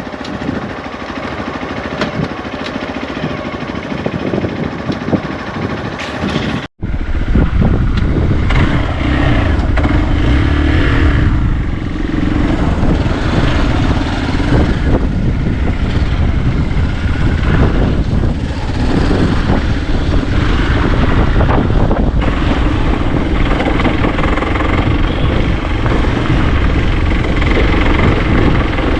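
Motorcycle engine running on the move, mixed with wind on the microphone. About a third of the way through there is a sudden cut, after which the low wind rumble is much louder.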